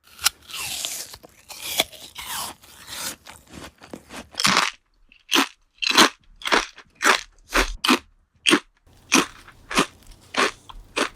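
Crunchy food being bitten and chewed. It starts as softer crackling, then about four seconds in becomes a steady run of loud crunches, about two a second.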